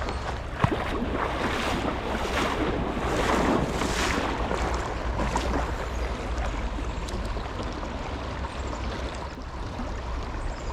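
Creek water running, with wind rumbling on the microphone and a sharp click about half a second in.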